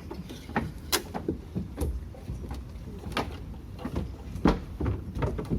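A series of irregular knocks and thumps, the loudest about four and a half seconds in, over a steady low rumble.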